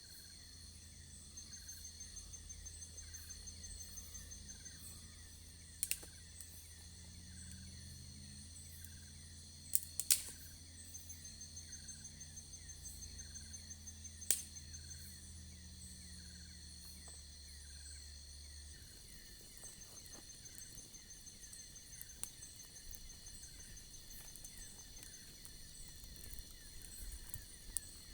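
Insects chirping steadily in a rhythmic high-pitched chorus, with a few sharp clicks and a low hum that stops about two-thirds of the way through.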